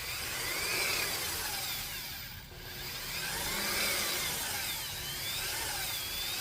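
Electric power mixer with a paddle running in a bucket of thick, lumpy driveway sealer. Its motor whine rises and falls in pitch as the paddle labours through the chunks, and it swells in loudness twice.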